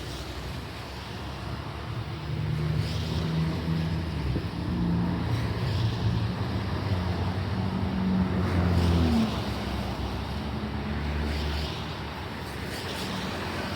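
Electric subway or light-rail train running, its traction motors humming in steady tones that shift in pitch over a rumble of running noise.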